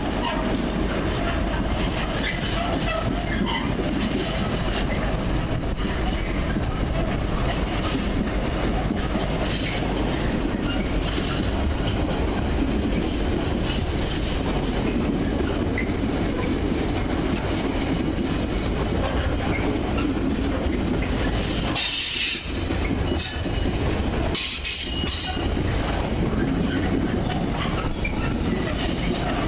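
A train moving through the station: a steady low rumble with scattered clicks, and two brief high-pitched bursts near the end.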